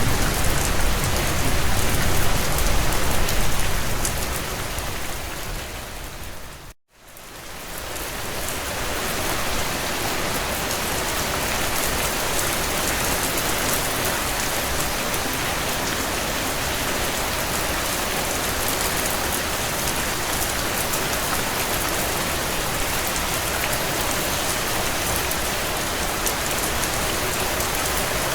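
Heavy rain, a steady dense hiss. About seven seconds in it fades out to a moment of silence and then fades back up over a couple of seconds, the seam of a looped recording.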